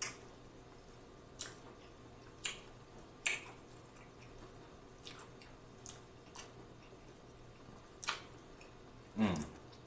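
Close-miked wet mouth sounds of eating: scattered sharp lip smacks and clicks while chewing, about nine of them, the loudest a longer wet smack near the end.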